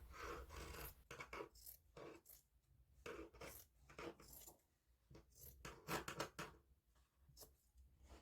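Faint, intermittent rubbing and scraping of felt and a foam backer rod being handled in crafting, in short scattered bursts.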